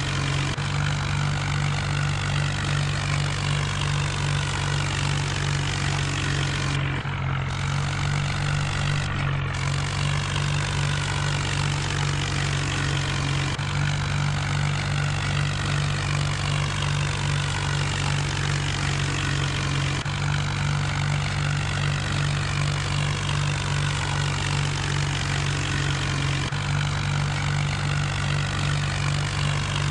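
John Deere tractor's diesel engine running steadily, with a few abrupt shifts in the sound along the way.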